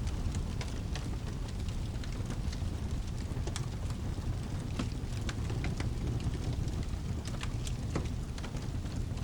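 Wood fire crackling in a fireplace, with irregular sharp pops scattered through, over a steady low rumble.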